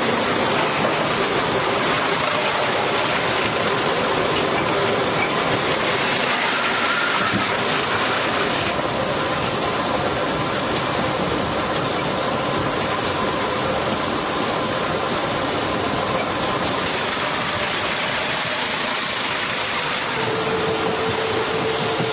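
Engine-driven machinery running steadily: a loud, even rushing noise with faint engine tones underneath. A new low steady tone joins about twenty seconds in.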